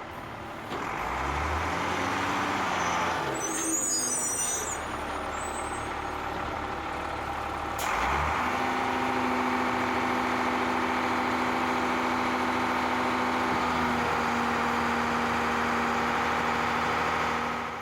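Heavy truck engine revving up and running, with a short hiss of air about four seconds in. After an abrupt change about eight seconds in, the engine runs steadily with a droning tone.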